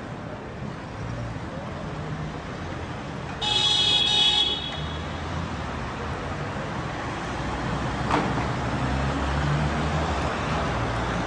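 A car horn honks once for about a second, over the steady road noise of cars driving in traffic. A single sharp click comes later.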